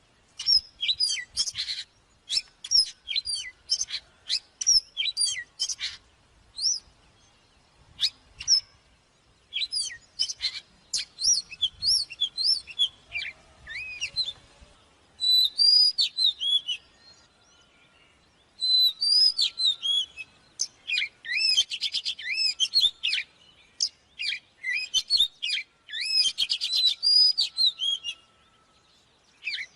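Oriental magpie-robin singing: quick phrases of varied high whistles, slurred notes and chirps, with brief pauses between phrases.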